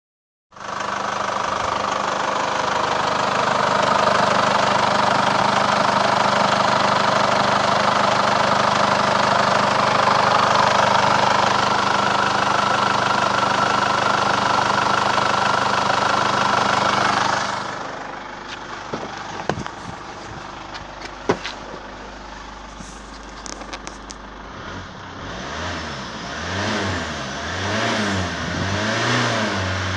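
2013 Holden Captiva's 2.2-litre four-cylinder turbo diesel running steadily, loud from the open engine bay. About two-thirds through it turns quieter, as heard from the cabin, with a few clicks. Near the end the engine is revved up and down several times, to around 2,500 rpm.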